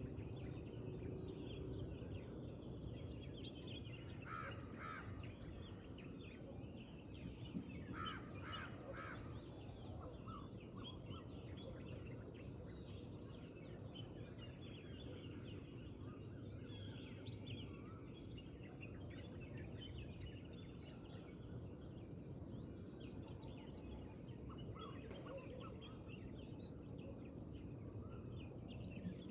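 Forest birdsong at dawn: many small birds chirping throughout over a low steady background hum of wind and forest. Harsher, louder calls from a larger bird stand out, twice in quick succession about four seconds in, then three times about eight seconds in.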